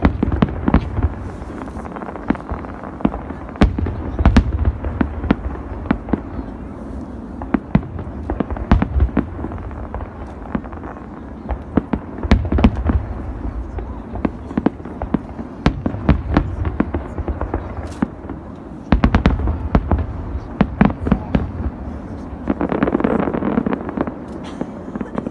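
Big aerial fireworks display: shells bursting in a rapid, irregular series of booms and sharp bangs, with rumbling between them. There is a denser spell of crackling noise near the end.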